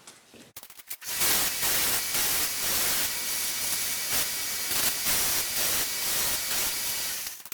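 A pressurized spray hisses steadily for about six seconds, starting and stopping abruptly, as surfaces are cleaned before a knife handle is glued up. A few light clicks come just before it.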